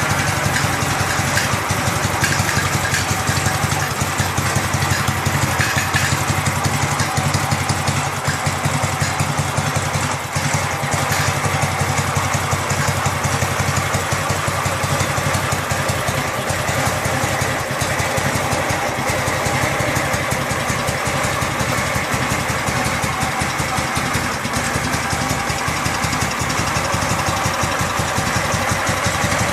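Ural 8.103 motorcycle's air-cooled flat-twin engine running steadily at idle while being run in after restoration, with an even pulsing beat.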